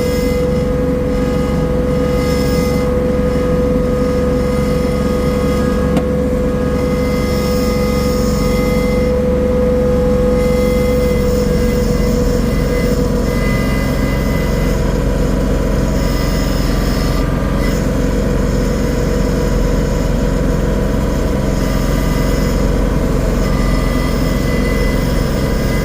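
Engine of a tilling machine running steadily while it turns over garden soil. Its pitch drops slightly about halfway through.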